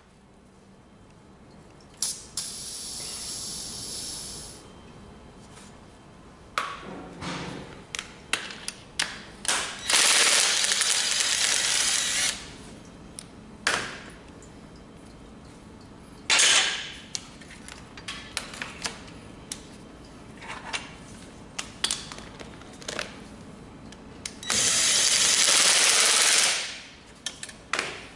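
Workshop handling sounds during a compression test on a D4CB diesel engine: scattered clicks and knocks of tools and fittings, broken by four bursts of hissing air, the longest two lasting about two seconds each.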